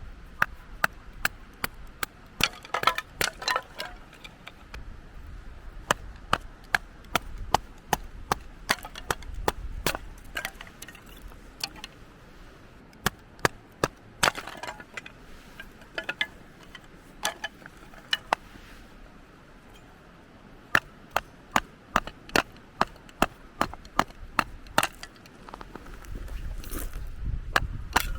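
Firewood being split by hand: repeated sharp wooden knocks at an uneven pace, sometimes several in quick succession.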